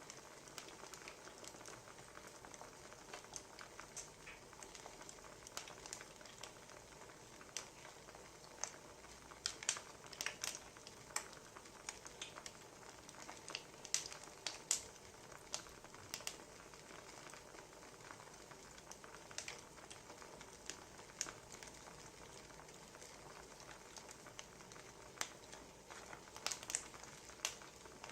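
Quiet wood fire crackling: a soft steady hiss with irregular sharp pops, a few of them louder.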